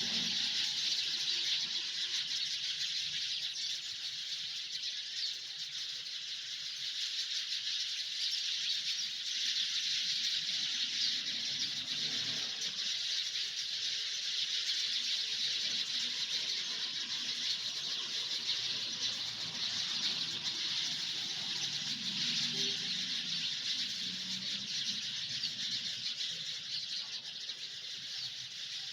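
A dense chorus of many small birds chirping at once, blending into a continuous high-pitched chatter.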